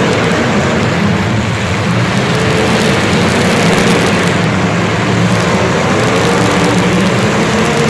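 A vehicle engine running steadily, with a faint whine that drifts slightly higher in pitch about halfway through.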